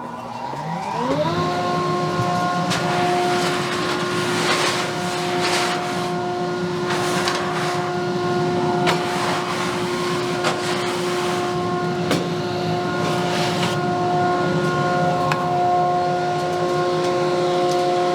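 An electric power tool's motor spins up about a second in and then runs at a steady whine. Short bursts of rasping come and go as the work is pressed against it.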